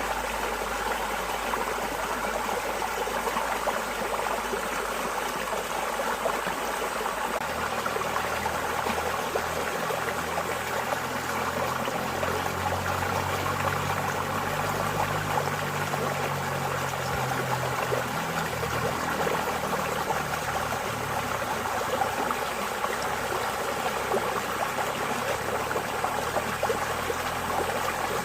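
Running water flowing and trickling steadily, an even rush of water with no pauses.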